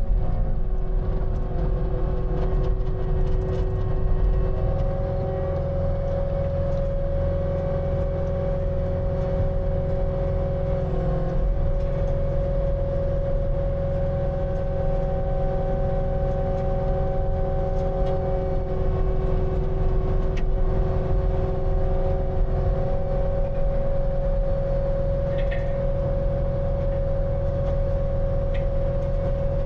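Skid steer running steadily under load while driving a Harley rake (power rake): a continuous engine drone with a steady whine over it.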